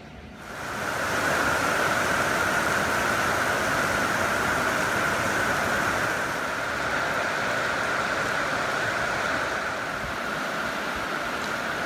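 Heavy rain pouring down onto the platform shelters, a steady, even hiss that comes in about half a second in.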